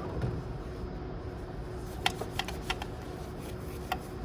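A run of about six short, sharp clicks and taps in the second half, over a steady faint hum.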